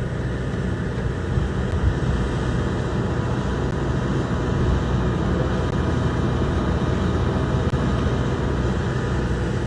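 Steady, loud engine noise, strongest in the lows, with a few faint steady whining tones above it; it cuts off abruptly at the end.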